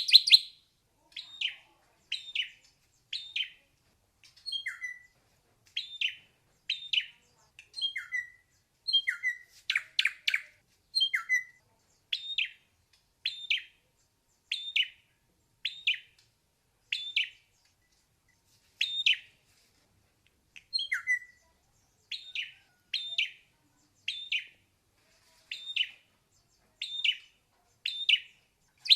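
Ashy drongo singing: a long series of short whistled notes about once a second, some of them lower notes that slide downward, opening with a quick rush of rapid notes.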